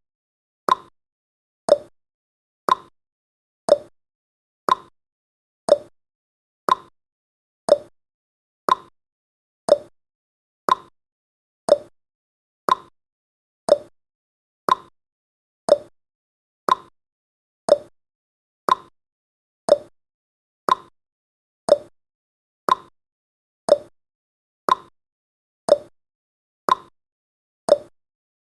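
Clock tick-tock sound effect counting off the seconds of a countdown timer: short ticks once a second, alternating a higher and a lower tick.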